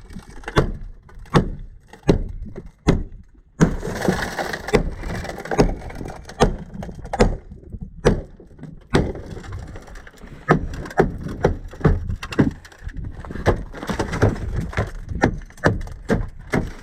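Repeated sharp blows breaking the window glass out of a Chevrolet S10 Blazer, with a burst of crunching about four seconds in and quicker strikes in the second half.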